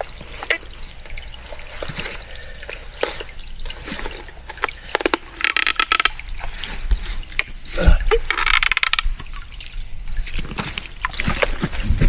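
Small stream of water trickling and splashing, with scattered knocks and rustles and two short bursts of louder splashing or scraping around the middle.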